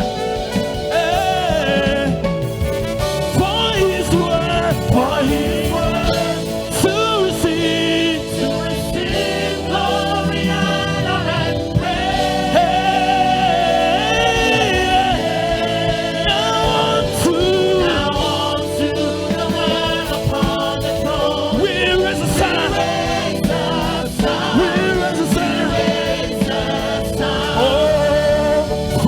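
Gospel music: a choir of singers singing with a live band of keyboard, bass and drums.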